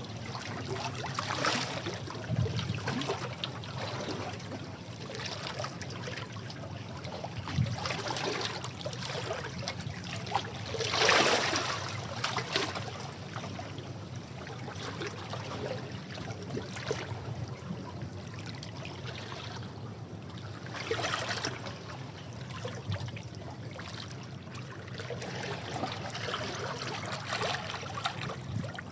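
Sea waves washing and splashing against rocks, a steady rush of water with surges every few seconds, the strongest about eleven seconds in.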